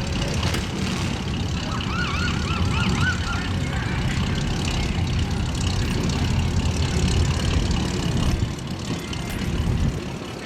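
Car engines and exhausts running, a steady low rumble of vehicles moving past. About two seconds in, a short warbling siren-like tone sounds for about a second and a half.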